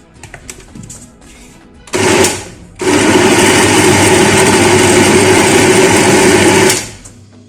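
Electric blender blending calamansi pulp with vinegar and sugar: a short pulse about two seconds in, then a steady run of about four seconds that winds down near the end. A few light clicks come before it starts.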